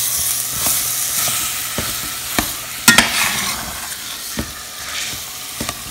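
Sweet potatoes frying in butter in a stainless steel pot, being mashed and stirred with a metal spoon: a steady sizzle with scraping and several sharp knocks of the spoon against the pot, the loudest about three seconds in.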